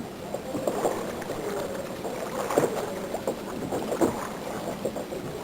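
Water splashing and sloshing around a kayak, with irregular short splashes and knocks, as from a paddle dipping while the kayak turns.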